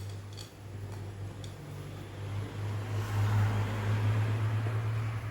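Electric stand mixer running as it kneads bread dough, a steady motor hum that grows louder and fuller about halfway through.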